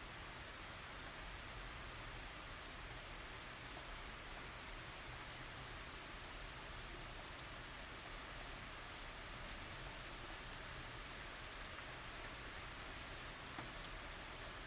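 Steady light tropical rain falling, an even hiss with scattered drop ticks.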